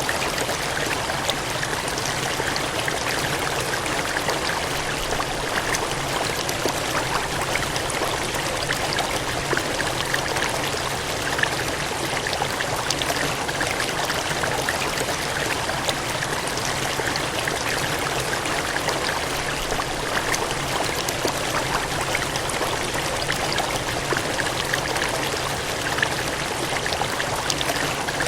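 Water gushing and cascading steadily: an even rushing noise with a fine splashing texture and little deep rumble.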